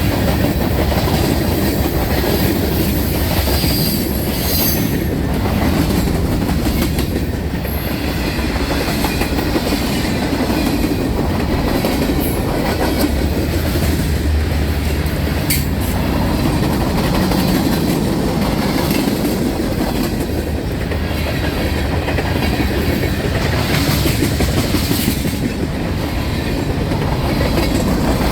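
Freight train rolling past steadily, its wheels clicking over the rail joints, with a few short high-pitched wheel squeals.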